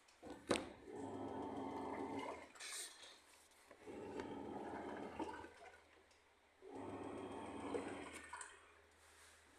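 Washing machine running a wash cycle: water sloshing in bursts about two seconds long with a motor hum, pausing for about a second between bursts as the drum or agitator changes direction. A sharp click comes about half a second in.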